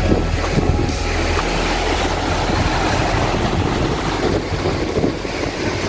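Steady rushing roar of a mountain waterfall, with wind buffeting the microphone.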